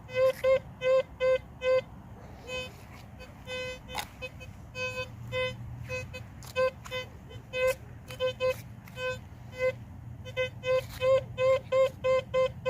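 Teknetics T2SE metal detector in all-metal mode giving a string of short beeps on one steady pitch, two to four a second and varying in loudness as the coil sweeps over the ground. A single sharp click comes about four seconds in.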